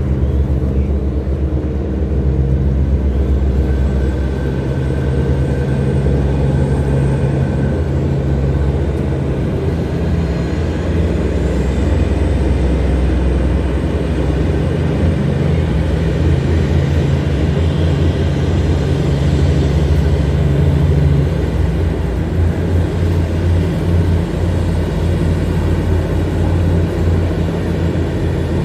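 Tugboat engine running steadily under load, a deep, even drone, as it tows coal barges against the river current.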